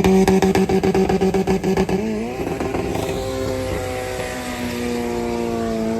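Car engine held at high revs with a rapid stutter for the first two seconds, then running on steadily at a slightly lower, slowly falling pitch. It is revving ahead of a drag race.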